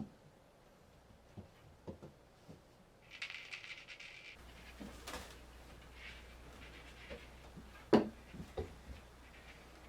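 Scattered light taps and knocks of a kitten playing with a cat toy, with a brief rustle around three seconds in and one sharper knock about eight seconds in.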